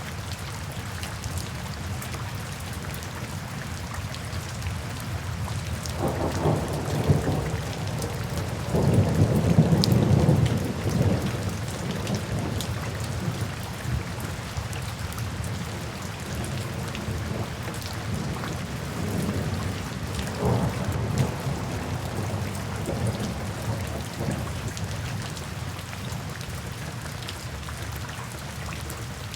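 Steady rain falling, with rolls of thunder rumbling low beneath it: a first roll builds about six seconds in and is loudest around ten seconds, and a weaker one follows about twenty seconds in.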